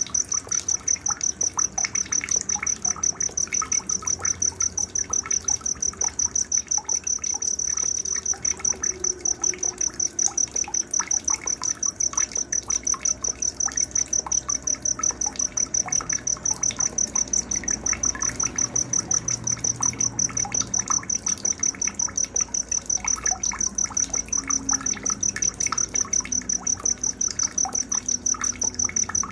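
A cricket chirping steadily in a high, rapid pulse, about four chirps a second, over scattered short bird chirps and a faint trickle of water.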